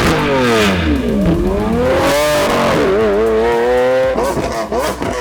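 Lamborghini Aventador SV's V12 engine through a full Capristo decat exhaust, revving. The pitch falls, climbs again, breaks briefly about two seconds in, then holds and wavers before turning quieter and choppier near the end.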